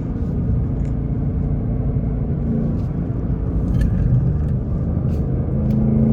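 2024 Ford Mustang GT's 5.0-litre Coyote V8 with active exhaust in sport mode, running on the move with a low rumble; near the end the engine note starts rising as it accelerates.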